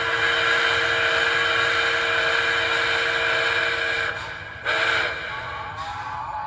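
Electronic steam whistle of an MTH model Berkshire steam locomotive's sound system: one long blast of several held notes lasting about four seconds, then a short blast about a second later.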